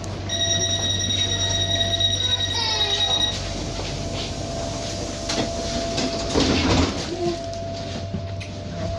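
Tyne and Wear Metro train with a steady low hum, a high steady tone for about three seconds near the start that cuts off suddenly, and a rattling clatter a little after halfway.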